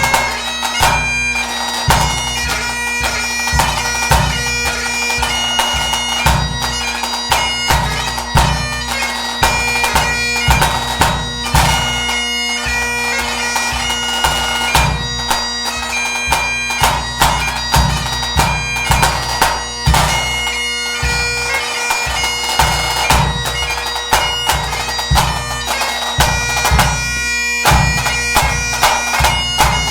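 Great Highland bagpipe playing a tune over its steady drones, with a bass drum struck in time underneath, roughly once a second.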